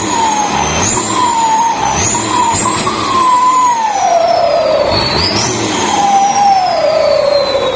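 Twin turbochargers on a combine harvester's Hino J08C diesel engine, whistling loudly as the engine is revved. The whine jumps up sharply with each of about four throttle blips and winds slowly down in pitch between them.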